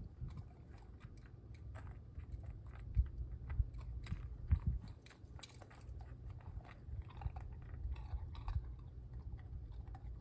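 German shorthaired pointer puppy chewing and crunching on chunks of ice: an irregular run of sharp crunches over a steady low rumble.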